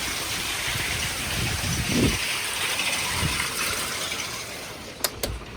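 Hail and heavy rain coming down in a steady rush, with a dull thump about two seconds in and two sharp clicks near the end.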